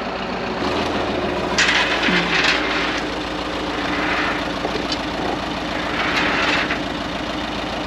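Front-end loader's engine running steadily, picking up a little about a second in. Three bursts of noise sound over it as the bucket works at the logs.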